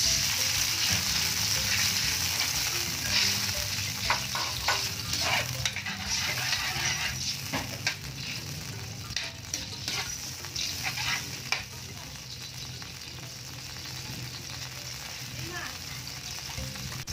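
Soy sauce and calamansi juice sizzling in a hot wok with sautéed onions, stirred with a metal spatula that scrapes against the pan in short strokes. After about twelve seconds the scraping stops and the sizzling goes on more quietly.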